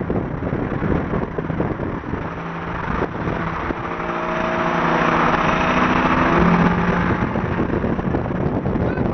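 Car engine running on the road under road and wind noise, its note building louder and peaking about six and a half seconds in before easing off.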